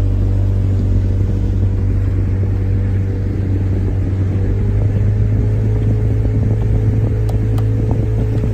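Speedboat engine running steadily under way: a constant low drone holding an even pitch.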